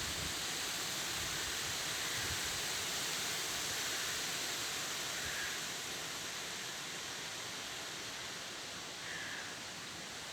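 Strong wind blowing, a steady rushing noise with rustling trees.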